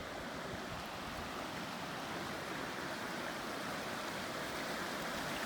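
River water rushing steadily over rocks and rapids.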